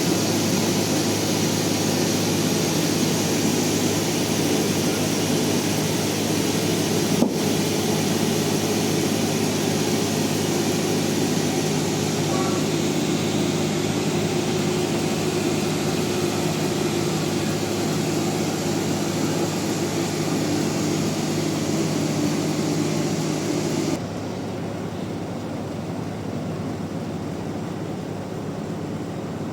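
Band sawmill running in a steady mechanical drone with a low hum, with a single sharp click about seven seconds in. The whole sound drops abruptly to a lower level near the end.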